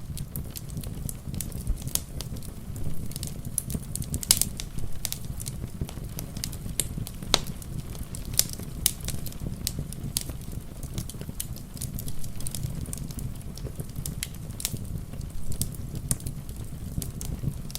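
Wood fire crackling in a fireplace: irregular sharp pops and snaps, a few louder ones around four and seven seconds in, over a steady low rumble.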